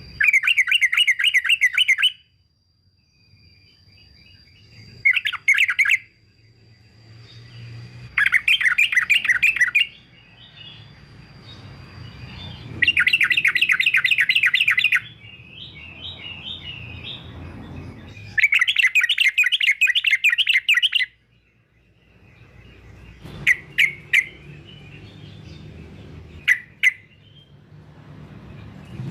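Male yellow-vented bulbul (trucukan) singing: five bursts of rapid, bubbling song of about two seconds each, separated by pauses, then a few short sharp notes near the end.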